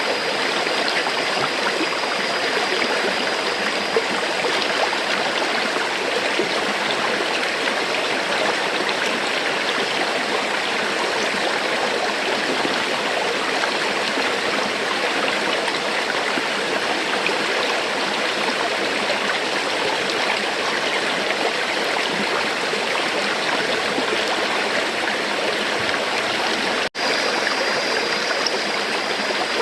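River water flowing steadily, an even rush of moving water. It cuts out for a split second near the end.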